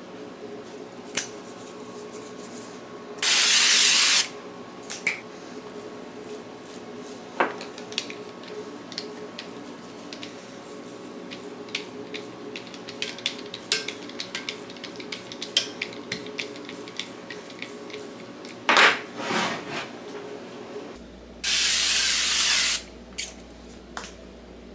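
Two one-second hissing bursts from a spray can, about three seconds in and again near the end, the loudest sounds here. Between them, scattered light clicks and knocks of kitchen utensils over a steady low hum.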